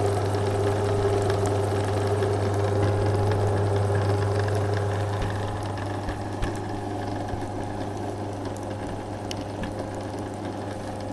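Flexispeed mini lathe running, its belt-driven electric motor humming steadily as the chuck turns. It gets a little quieter about halfway through, with a couple of faint knocks a little after that.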